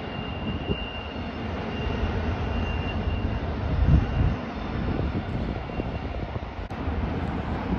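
Low, steady rumble of a distant double-stack freight train working around the Tehachapi Loop, with wind buffeting the microphone in uneven gusts.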